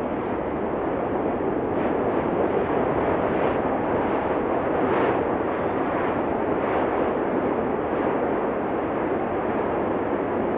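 Cumbre Vieja volcano erupting: a continuous rushing noise with a louder burst every second or two.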